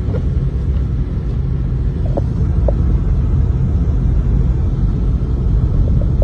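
Steady low rumble with an even hiss above it, and a few faint short tones about two seconds in.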